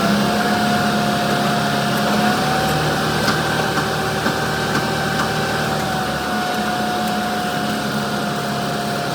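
A motor running steadily with a constant hum; its pitch steps up slightly at the start and then holds.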